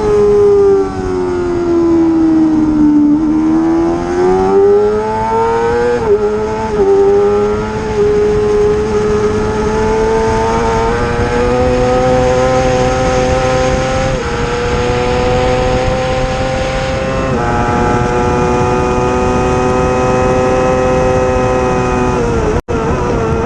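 Racing motorcycle engine running hard. It dips in pitch as it slows about three seconds in, climbs back, then holds at high revs with short steps in pitch at gear changes. There is a brief cut-out near the end.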